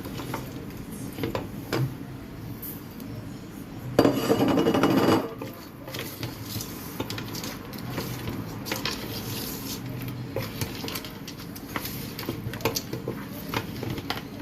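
A spoon stirring and scraping in a pot of goat-head pieces, with light clinks and knocks of utensil on the pot, and one louder scrape of about a second a little after four seconds in.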